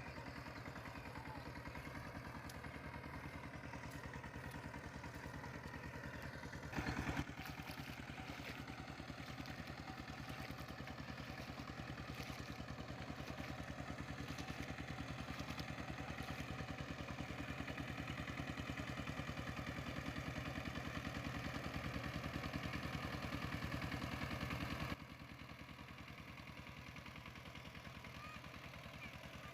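A small engine running steadily, with a brief louder noise about seven seconds in; the sound drops suddenly to a quieter level near the end.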